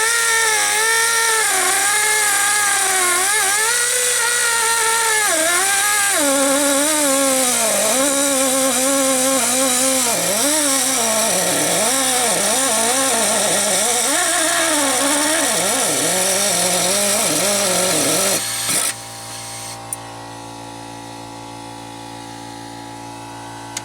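Air-powered cut-off tool running under load on a seized exhaust manifold stud, its whine wavering and sagging lower as it bogs and runs short of air. It cuts off suddenly about 18 seconds in, leaving a quieter steady hum.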